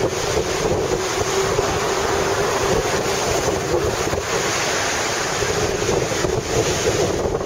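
Rough, typhoon-driven sea surf churning against the shore, with strong wind buffeting the microphone.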